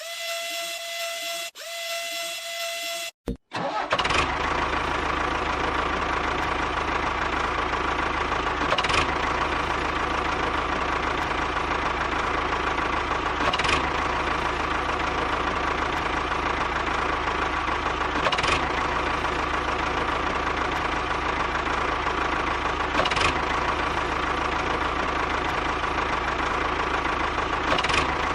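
Steady engine-like running of a motor, beginning about three and a half seconds in after a short, different pitched sound breaks off, with a faint click about every four and a half seconds.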